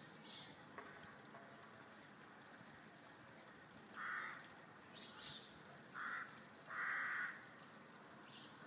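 A bird calling outdoors: three short, harsh calls about four, six and seven seconds in, the last the longest and loudest, with a fainter, higher call between the first two.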